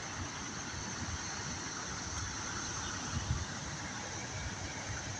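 Steady background noise: a low, uneven rumble under an even hiss, with a faint steady high tone.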